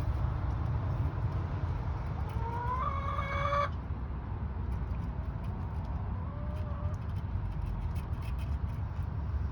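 Chicken calling: one drawn-out call that rises in pitch and cuts off abruptly about two to four seconds in, then a fainter short call a few seconds later, over a steady low rumble.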